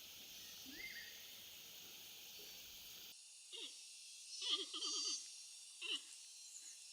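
Near silence with a faint hiss, then a few faint, short animal calls, each falling in pitch, with a quick run of them in the middle of the stretch.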